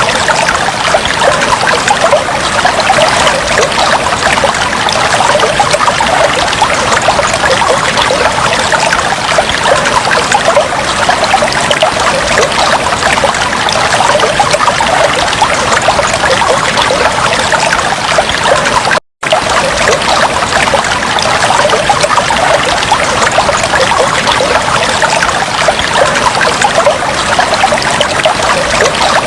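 Aquarium water trickling steadily. About two-thirds of the way through it cuts out for a split second, then carries on unchanged.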